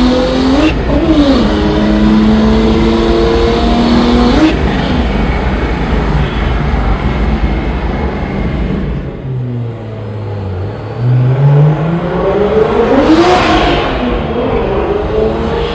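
BMW N54 turbocharged inline-six under hard acceleration, the engine pitch climbing steadily for about four seconds before breaking off. After a lower stretch, it pulls hard again to a loud peak as the car passes close, and its pitch falls as it goes away.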